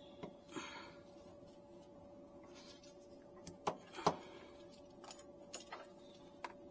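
A handful of sharp clicks and light knocks from hands working on the generator's oil filter and its housing, the loudest about four seconds in, over a steady faint hum.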